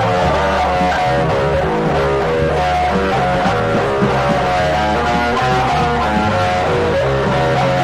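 Instrumental rock music without vocals: electric guitar playing sustained notes over a bass guitar line.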